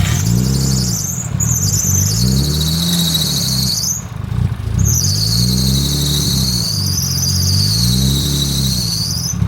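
Nissan Skyline R34's freshly rebuilt RB25DET turbocharged straight-six, just started and kept running on the throttle, revving up and down about four times. A high whine rises and falls with the revs. The fresh engine is struggling to idle on its own on the early tune.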